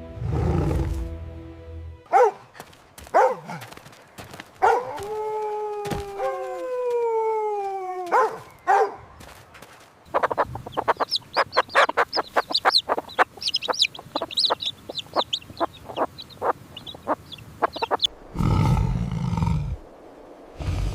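Chicken calls: a rooster's long crow, falling in pitch, then about eight seconds of rapid clucking and cackling. A low rumbling animal sound comes at the start and again near the end.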